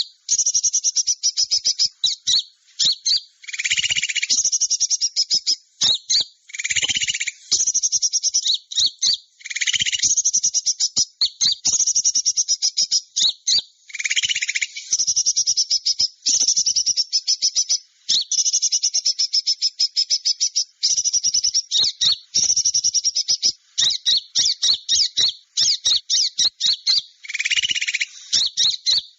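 Bird-trapping lure recording of small songbirds calling: dense, fast trains of high chips and trills with brief gaps. Every few seconds a lower, buzzier call breaks in.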